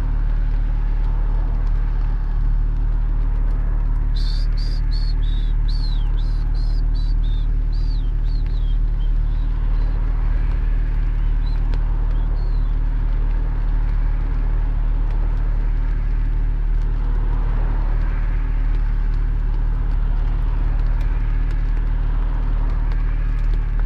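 Porsche 718 Spyder's flat-six engine running steadily as the car cruises, a constant low drone. From about four seconds in, a few seconds of short high chirps sound over it.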